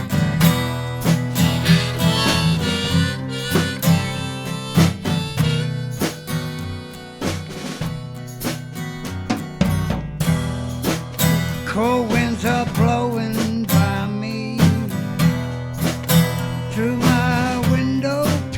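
Instrumental song intro: harmonica played over acoustic guitar and a drum kit, with the harmonica bending notes in its phrases about twelve seconds in and near the end.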